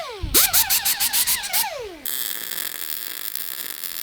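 Electronic sound effect: warbling tones sliding down and up over rapid pulses, about six a second, for under two seconds. Then a steady hiss takes over.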